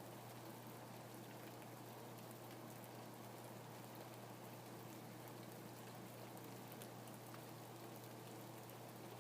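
Faint rain falling steadily: an even hiss dotted with many small drop ticks, over a steady low hum.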